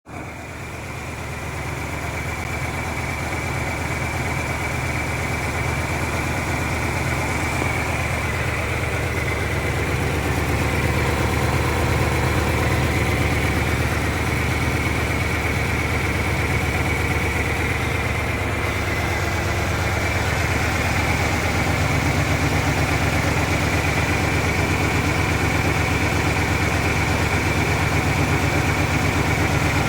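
1997 Ford Ranger's 2.3-litre four-cylinder engine idling, a steady running that the owner calls a rough idle; the truck sat unused for years and still has its old gasoline and spark plugs.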